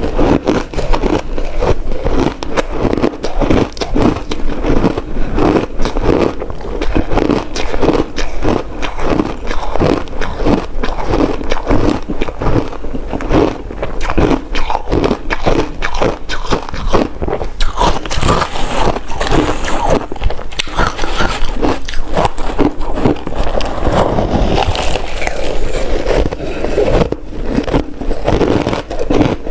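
Close-miked crunching of hard ice being bitten and chewed, a rapid, continuous run of sharp crunches.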